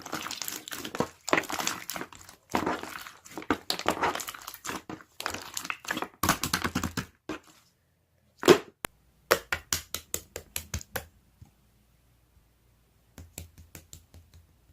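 Close-up crunching and crackling of crisp raw vegetables being bitten and chewed. About eight and a half seconds in there is one loud thunk, followed by a run of sharp clicks, and a few more clicks near the end.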